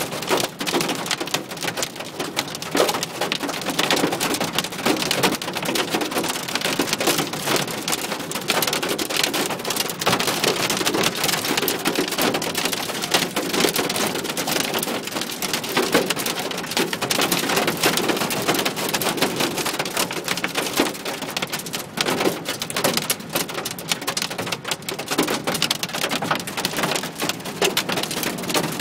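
Heavy rain pelting a car's windscreen and body, heard from inside the car: a dense, steady patter of drops hitting glass and metal.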